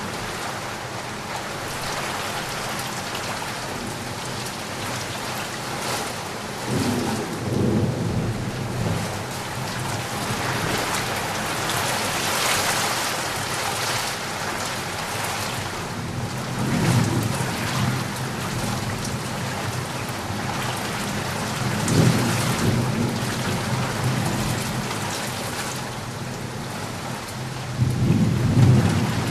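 Heavy rain falling steadily as a dense hiss, with low rolls of thunder rumbling in four times.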